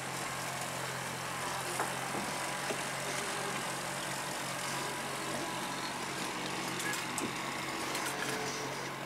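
Fishing boat's engine running steadily at trolling speed, a low even hum under a steady hiss, with a few faint knocks.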